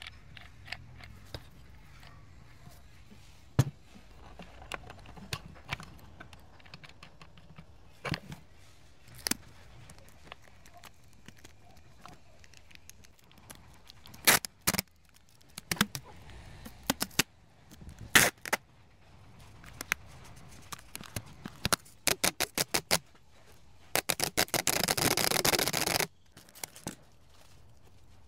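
Metal engine parts and hand tools being handled: scattered clinks and knocks, quicker runs of clicks in the later half, then about two seconds of rapid rattling near the end.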